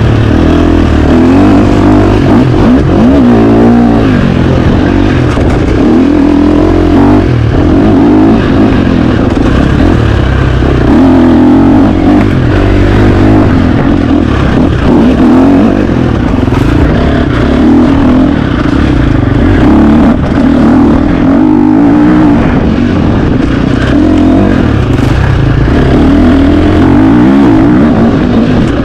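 A KTM 350 XC-F four-stroke single-cylinder dirt bike engine under hard riding, loud and continuous. The revs rise and fall over and over as the throttle is worked.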